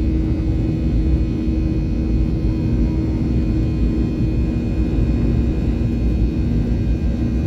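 Jet airliner's engines heard from inside the passenger cabin: a loud, steady rumble with a steady low hum and faint high whine, no rise or fall in pitch.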